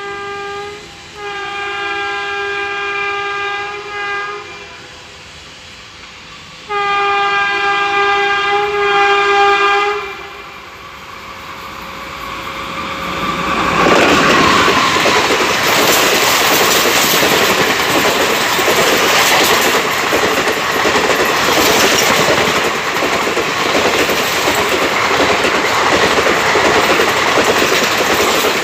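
An Indian Railways electric locomotive sounds its horn in three long held blasts as it approaches, the first already sounding as the sound begins. From about halfway the train runs through at speed close by, a loud steady rush of wheels on rail with the rapid clickety-clack of the ICF coaches over the rail joints.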